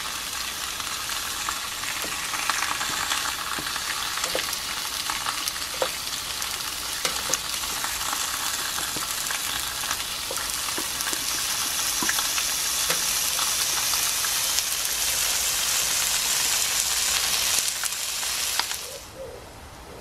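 Potato and sweet potato slices sizzling in oil on a George Foreman grill's griddle plate, a steady crackling hiss with small pops. The sizzle drops away sharply near the end.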